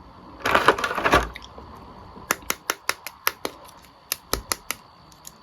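Plastic action figures and their packaging being handled: a brief rustle, then a quick run of sharp plastic clicks, several a second, for about two and a half seconds.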